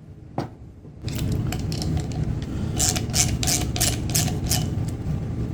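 Quick clicking and rattling of hard parts worked by hand over a low steady rumble, starting about a second in: the end cap being swapped from one window motor onto the other.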